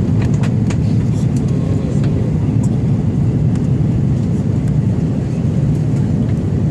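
Steady engine and airflow noise of an airliner heard inside the passenger cabin as it descends toward landing, with a few faint clicks.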